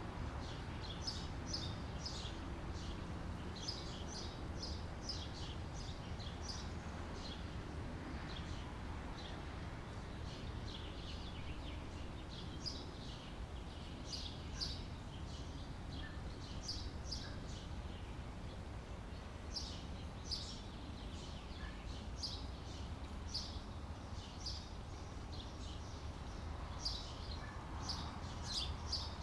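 Small birds chirping in many short, high calls throughout, over a steady low background rumble.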